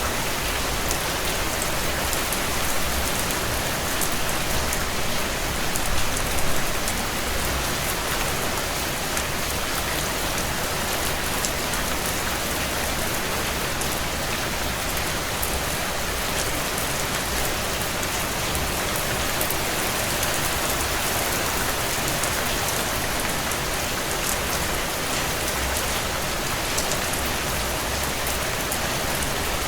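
Steady heavy rain pattering on a cabin window, with light crackling from a wood fire in a stone fireplace as small scattered ticks over the rain. The level swells briefly a few seconds in.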